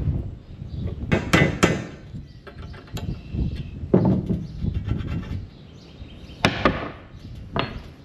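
Irregular metal knocks and clanks, about eight of them, some ringing briefly, from working a stuck auger loose from its housing.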